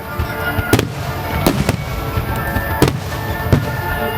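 Aerial fireworks shells bursting, five sharp bangs in about four seconds, over music playing in the background.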